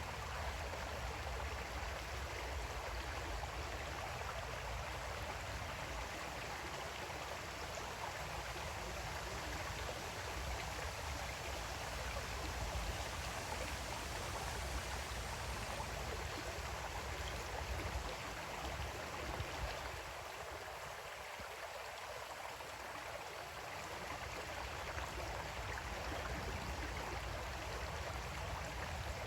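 Creek water flowing steadily over stones, a continuous gurgling rush with a low rumble beneath it, easing slightly about two-thirds of the way through.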